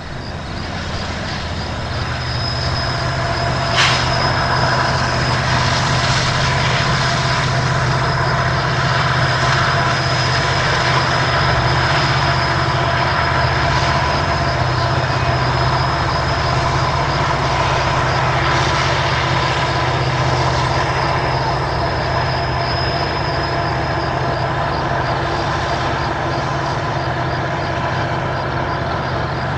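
Union Pacific diesel locomotive and autorack freight cars rolling past: a steady engine drone under the noise of the wheels on the rails, with steady high-pitched tones above. It swells over the first couple of seconds, and there is one sharp clank about four seconds in.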